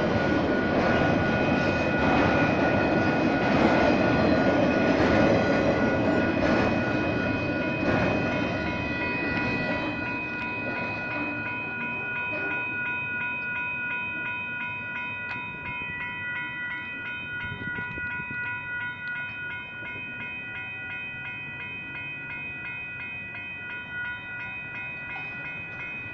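Intermodal freight train of truck trailers on flatcars rolling past a grade crossing, its wheel and car noise loud for the first eight to ten seconds and then fading away. Western-Cullen-Hayes electronic crossing bells ring in a steady, fast pulse throughout and cut off just before the end as the crossing clears and the gate rises.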